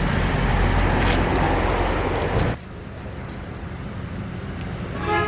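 Engine running steadily, with a loud rushing noise over it that cuts off suddenly about two and a half seconds in, leaving the engine running on more quietly.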